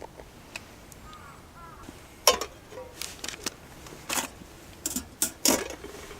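A series of sharp knocks and clacks, about half a dozen irregularly spaced over the last four seconds, the first one the loudest; faint short chirps come before them.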